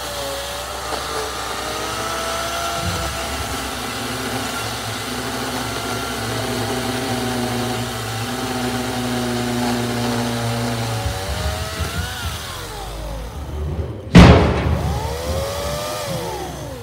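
Battery-powered EGO tool's electric motor whining under load. Its pitch sags and falls away about two-thirds through as it bogs down in the cut. A single loud sharp crack comes about three-quarters in, and then the motor spins up and winds down again.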